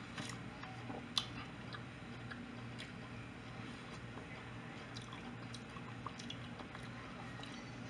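Quiet eating sounds: faint chewing and a few soft clicks as food is picked at on a plate, over a low steady hum.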